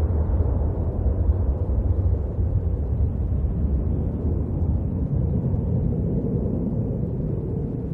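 Jet airliner engine noise during a departure: a deep, steady rumble that slowly fades over the last few seconds.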